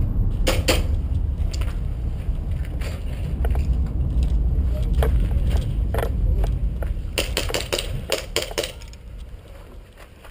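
Low rumbling wind and handling noise on a moving body-worn camera's microphone, with scattered sharp clicks and scuffs of footsteps and rattling gear. A dense run of quick clicks comes about seven to nine seconds in, then the sound dies down near the end.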